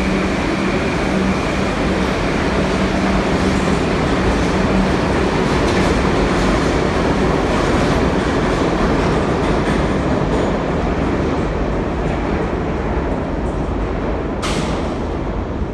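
New York City subway train running along the station platform, a loud steady rail noise that eases off slightly toward the end. A short hiss comes near the end.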